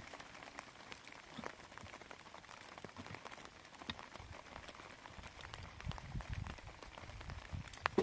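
Light rain pattering, with scattered drops ticking. A low rumble joins about five seconds in.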